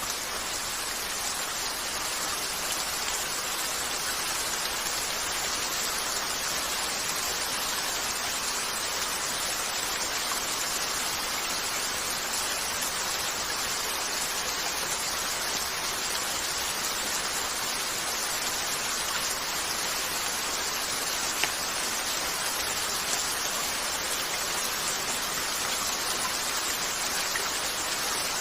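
Steady rain falling on a window, an even hiss with no change in strength. A couple of brief sharp pops come past the middle.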